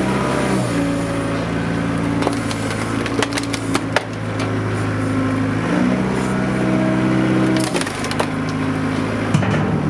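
Tractor engine running, its speed shifting a couple of times, while the plastic casing of a DVD/VHS player cracks and splinters under it: a cluster of sharp snaps a few seconds in and more near the end.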